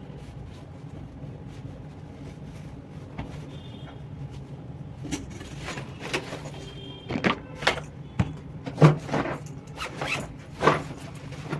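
Several short rustling, scraping handling noises from about five seconds in, over a steady low hum.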